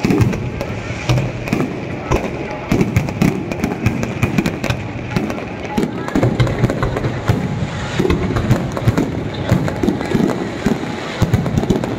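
Fireworks and firecrackers going off in quick, irregular succession: a dense run of cracks and pops, with a rumble of bangs underneath.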